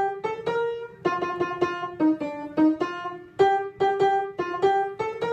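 Piano playing an instrumental passage of separate, evenly paced notes, about two to three a second, between sung verses.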